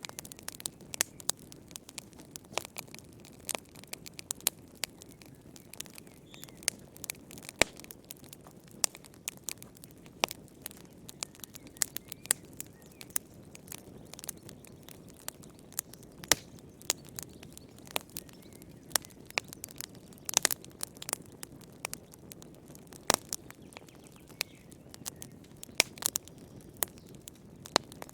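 Burning firewood crackling, with frequent sharp irregular pops and snaps over a low, steady hiss of flame.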